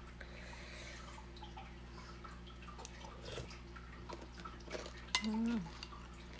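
Close-up eating sounds: wet chewing of chopped fruit and cucumber salad, with small clicks and a spoon clinking against a ceramic bowl. A brief vocal sound about five seconds in.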